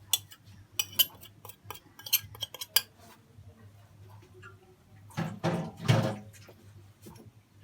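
A spoon clinking and tapping against a mixing bowl as spices are added, with quick clicks over the first few seconds. About five seconds in there is a louder scraping clatter in the bowl.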